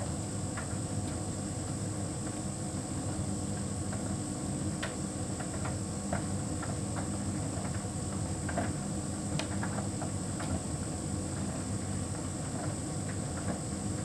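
Hotpoint heat pump tumble dryer running: a steady hum with a constant high whine above it, and a few faint scattered clicks.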